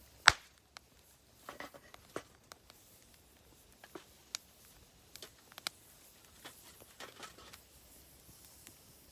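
Wood campfire crackling: irregular sharp pops and snaps, with one loud crack just after the start.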